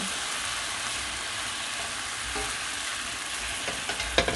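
Sliced onions, okra and peppers sizzling steadily in a stainless steel pot as a silicone spatula stirs them, with a little water in the pan so they soften. A few light clicks come near the end.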